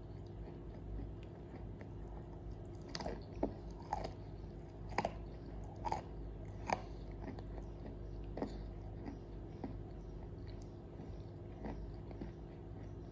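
Close-up biting and chewing of dry edible clay: a run of sharp crunches from about three to seven seconds in, then softer, sparser crunches as it is chewed, over a steady low hum.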